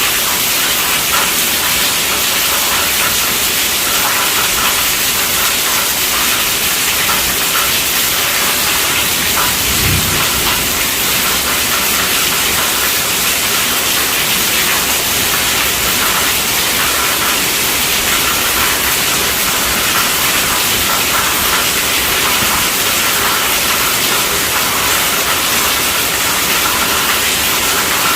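Heavy rain drumming steadily on a tent roof, a dense even hiss of drops. About ten seconds in there is a brief low thump.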